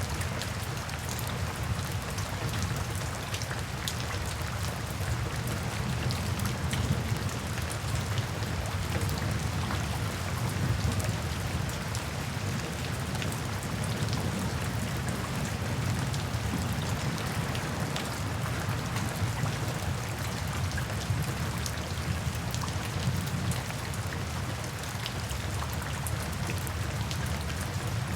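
Steady, heavy rain, with many individual drops pattering close by over a constant low rumble.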